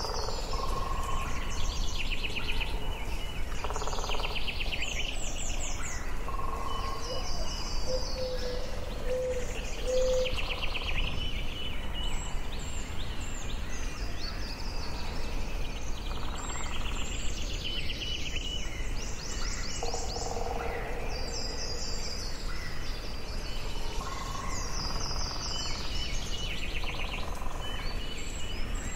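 Forest birdsong: several birds sing short, rapidly trilled phrases again and again, some high and some lower, over a steady low background rumble.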